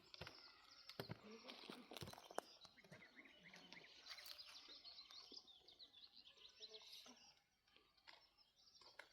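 Faint, rapid twittering of small birds, with a few soft clicks or knocks in the first couple of seconds.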